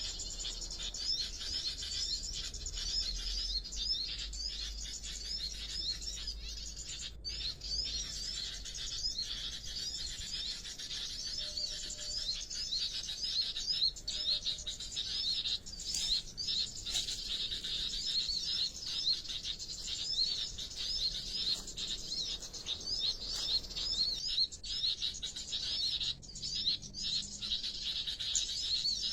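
Small birds chirping: a fast, continuous series of short, high repeated chirps.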